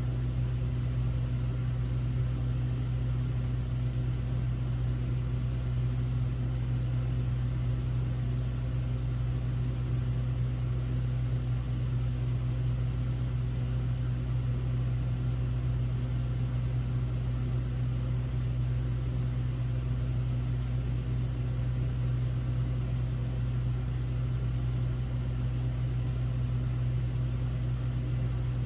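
Hotel room air conditioner running with a steady low hum and an even rush of air.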